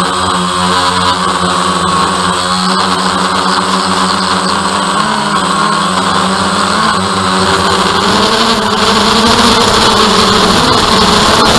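DJI Phantom quadcopter's motors and propellers humming steadily, the pitch wavering and the sound growing slightly louder after about eight seconds as the drone changes speed.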